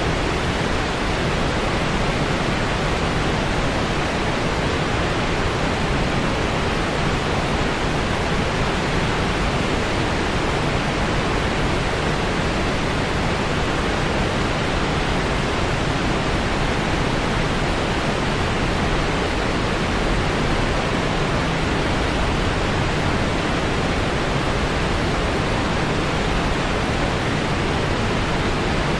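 Steady synthetic noise, even and unchanging, with its energy spread evenly from the lows to the upper treble and rolling off in the highest frequencies.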